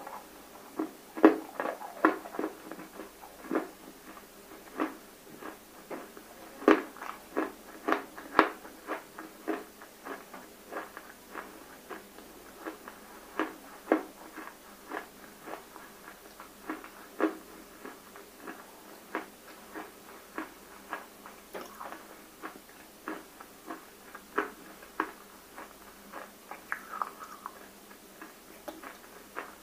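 Close-miked chewing of water-soaked roasted nakumatt clay: an irregular run of sharp crunches and clicks, loudest in clusters about a second in and again around seven to eight seconds in.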